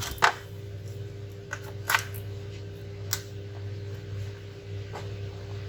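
A few sharp, light clicks as multimeter probes are set on a laptop motherboard, over a steady electrical hum from the powered bench setup.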